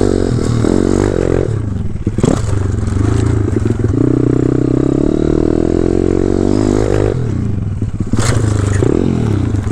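A 190cc single-cylinder four-stroke pit bike engine revving up and down while riding, with two sharp knocks, one about two seconds in and one near the end.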